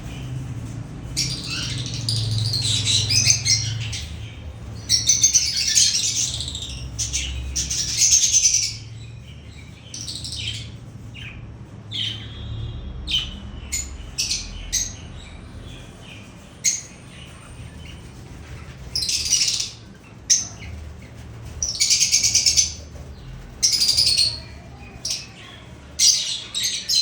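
Budgerigar chattering and warbling in bursts of a second or two, several times, with short high chirps in between.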